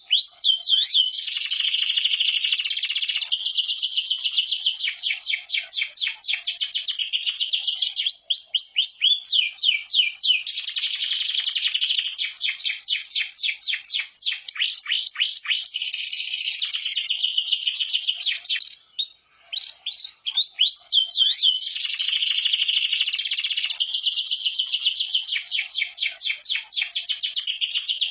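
Domestic canary singing long runs of rapid trills and repeated chirping notes, with brief pauses between phrases about 8 and 19 seconds in.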